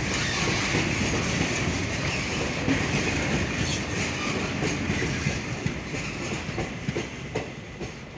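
Diesel-hauled goods train rolling past, its wagon wheels clattering over the rail joints in a steady run of knocks. The sound eases off slightly near the end.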